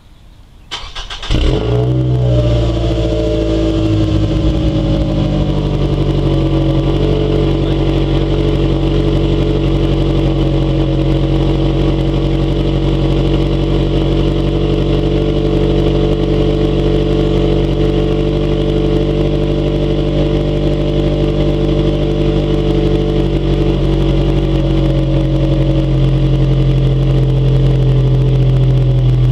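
2009 Scion xB's 2.4-litre four-cylinder started cold through a GReddy titanium exhaust: a brief crank about a second in, the engine catches with a flare of revs, then settles into a steady cold-start idle.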